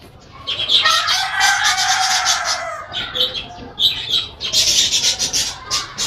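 Loud, harsh bird calls: one drawn-out call of about two and a half seconds that drifts slightly lower in pitch, then several shorter calls.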